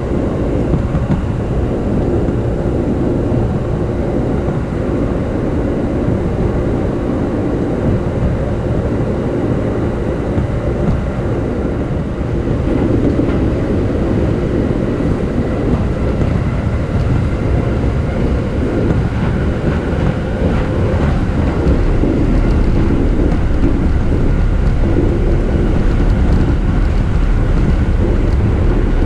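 JR East E233 series electric commuter train running along the line, heard from inside the car: a steady rumble of wheels on the rails with a few faint steady tones over it, growing somewhat louder about two-thirds of the way in.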